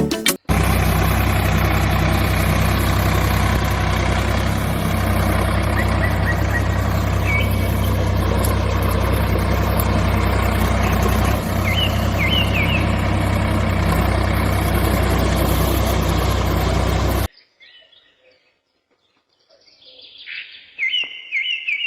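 A steady machine running noise with a low hum, with a few short bird chirps over it. It cuts off suddenly near the end, leaving faint bird chirps.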